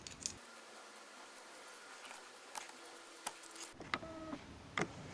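Faint scattered clicks and ticks as the laptop's bent metal hinge is handled and worked back into shape by hand.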